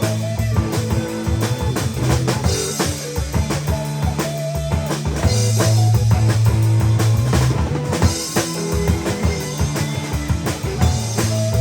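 Rock band playing an instrumental passage: drum kit keeping a steady beat with bass drum and snare, a bass guitar and electric guitar.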